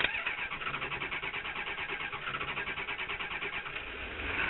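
Starter cranking a cold Ford 7.3 IDI V8 diesel after a double glow-plug cycle, in a fast, even rhythm of compression pulses. It swells briefly near the end.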